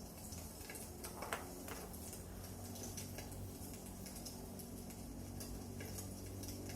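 Wood fire crackling in a fireplace: irregular small snaps and pops, with one sharper crack about a second in, over a low steady hum.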